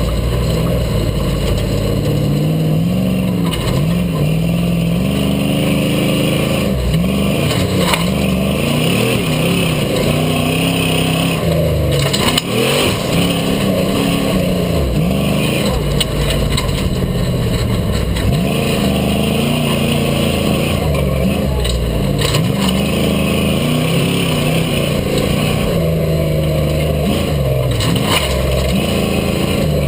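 Rock bouncer buggy's engine revving up and falling back over and over as it works through the course, with a few sharp knocks near the middle.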